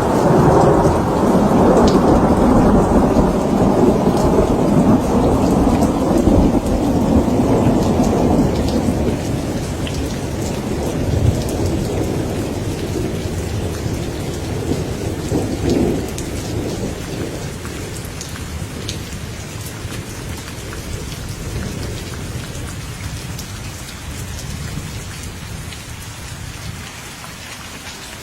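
Rain falling steadily through a thunderstorm, with a long roll of thunder that is loudest at the start and slowly dies away, swelling briefly about halfway through. Scattered raindrop ticks sit over the rain hiss.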